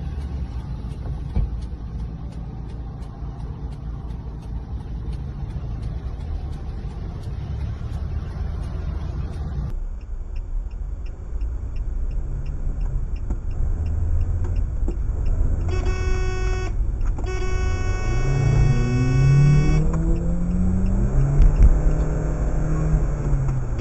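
Car interior road and engine rumble, then a car horn blaring: a short blast followed by a held honk of about three seconds, over engine noise rising and falling in pitch.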